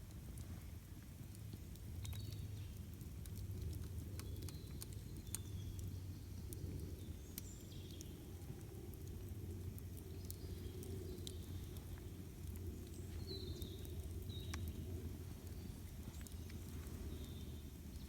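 Wood campfire crackling, with scattered sharp pops over a low steady rumble. Short high bird chirps come now and then.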